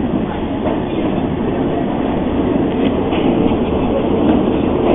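Passenger train running on the rails: a steady rumble of wheels and carriage noise.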